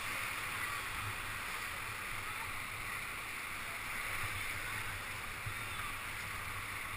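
Steady rush of whitewater in the rapids of the glacier-fed Kicking Horse River, heard from a raft.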